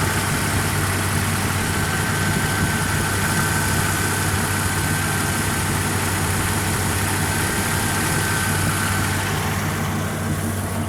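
Ford 5.0 V8 engine, from a 1997 Explorer with GT40P heads, shorty headers, an H-pipe and Magnaflow mufflers, idling steadily. A thin, steady high whine sits over the idle and fades out near the end.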